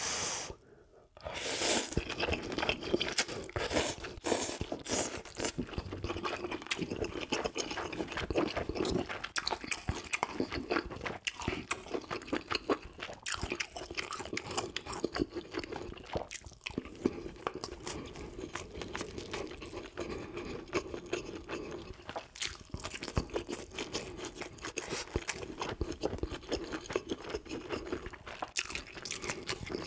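A person chewing close to the microphone: mouthfuls of beef-brisket soft-tofu stew and rice, with many small wet mouth clicks throughout.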